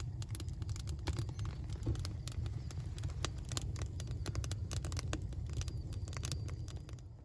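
Steady low rumble, like wind buffeting the microphone, with many irregular sharp clicks and crackles over it.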